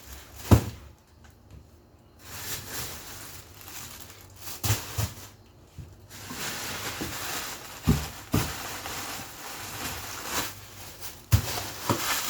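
Plastic-bagged packages of frozen meat being taken out of a fridge and set down, with rustling plastic and about seven dull knocks, the loudest about half a second in and near the end.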